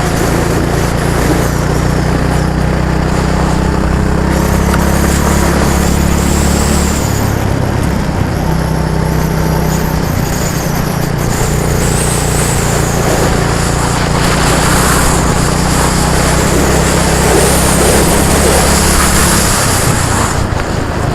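An engine running steadily close up, its note changing about seven seconds in and the low hum dropping away shortly before the end.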